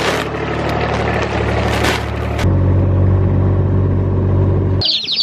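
A motor vehicle running, a steady low engine and road rumble with rattles over the first half that then settles steadier and louder. About 4.8 s in it cuts off abruptly to high-pitched, repeated peeping of baby chicks.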